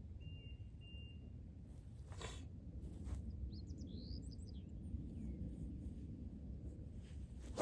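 Quiet outdoor background with a low rumble and a few short bird chirps about halfway through, ended by a single sharp crack of a golf club striking the ball.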